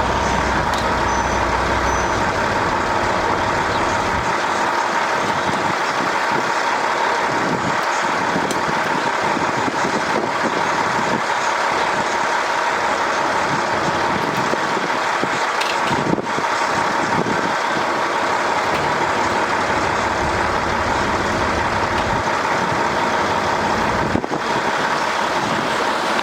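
A steady machine drone: an unbroken noise with a faint constant whine, briefly dropping out twice.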